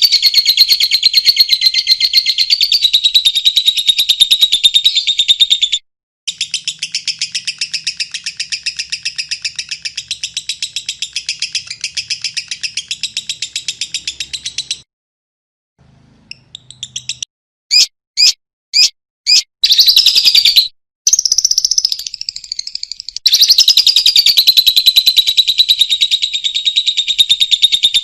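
Lovebird singing in long runs of rapid, shrill chattering trills, the long 'ngekek' song. The runs break off twice, and in the middle come about five separate loud chirps before the fast chattering starts again.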